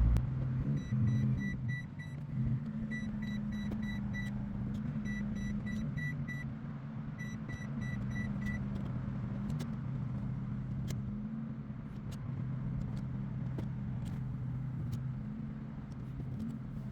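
1995 Ford Mustang's 3.8-litre V6 idling steadily while the automatic transmission is shifted through its gears to test it after a fluid and pan-gasket change. Over the first half, a car warning chime beeps repeatedly in short groups of four or five, and a few faint clicks come through.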